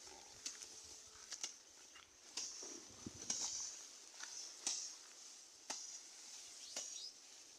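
Napier grass being handled: a series of short, crisp rustling crackles, about one a second.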